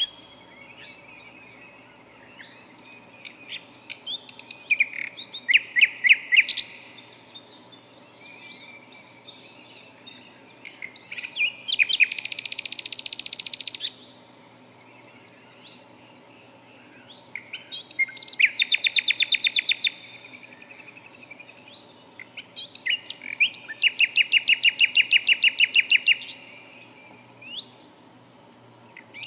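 Songbirds singing: a rapid trill of evenly repeated notes, about two seconds long, recurs four times, with short scattered chirps in between.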